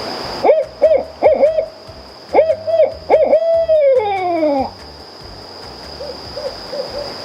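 Owl hooting: quick runs of short hoots, then a longer call that slides down in pitch, with fainter hoots near the end.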